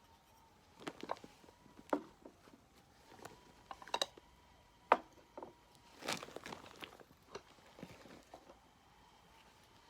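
Light, irregular clicks, taps and small knocks, about a dozen, the sharpest about five seconds in, with a brief rustling scuff around six seconds.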